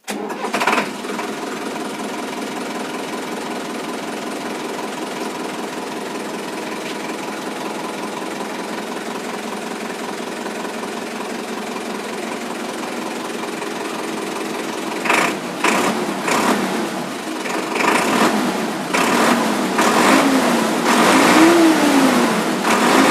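Sonalika WT 60 tractor's diesel engine running steadily, then revved up and down a few times in the last several seconds, its freshly refitted silencer no longer leaking exhaust at the side.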